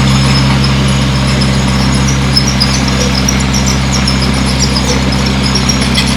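Bulldozer's diesel engine running steadily, a constant low drone with no change in revs.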